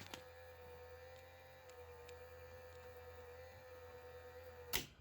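Panasonic PV-1200 VCR running with a steady hum and a slightly wavering whine. It is cut off by a sharp click near the end as the machine stops. The tape is getting no take-up, which the owner puts down to a worn drive belt.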